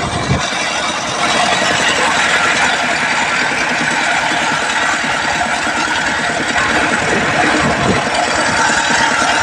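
An engine running steadily under a loud, even noise.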